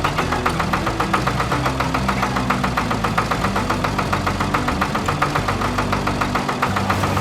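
Cartoon tractor engine sound effect, a rapid steady putter of about seven beats a second, over background music with a bass line.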